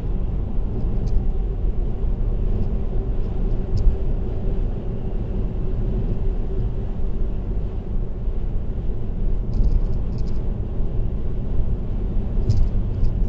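Steady low road rumble of a car cruising on an expressway: tyre and engine noise at constant speed, with a faint steady hum and no sudden events.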